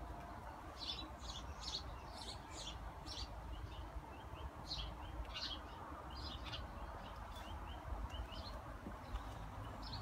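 Small birds chirping in quick runs of short high notes, with brief gaps between runs, over a low steady background rumble.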